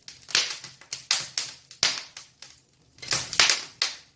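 Wood fire burning in an open fireplace, crackling and popping in sharp, irregular snaps, with a brief lull a little past the middle.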